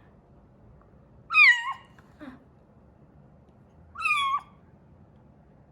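Kitten meowing twice, two loud high-pitched cries about two and a half seconds apart, each falling in pitch at the end.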